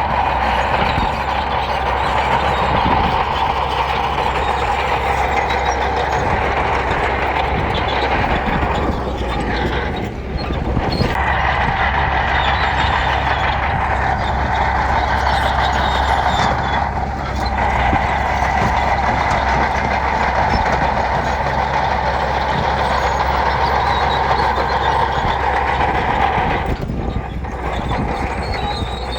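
A bulldozer's diesel engine running steadily while it works gravel, with three short drops in level: about a third of the way in, near the middle and near the end.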